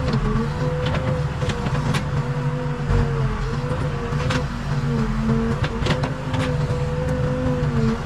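Case 580 Super K backhoe loader's diesel engine running steadily under work, with a high whine that dips slightly now and then and scattered sharp clicks and knocks.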